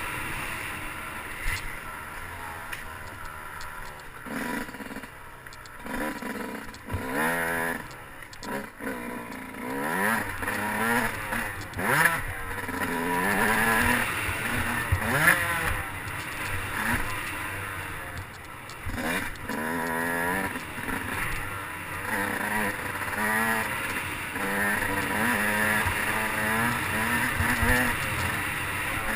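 Motocross dirt bike engine revving up and dropping back over and over as it accelerates and shifts, with a few sharp knocks and clatter in the middle.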